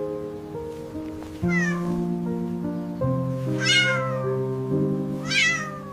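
A cat meowing three times over soft background music of held chords; the second and third meows are louder than the first.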